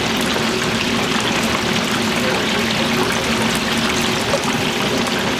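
Chicken deep-frying in a vat of hot oil: a steady, dense bubbling hiss with a few small crackles.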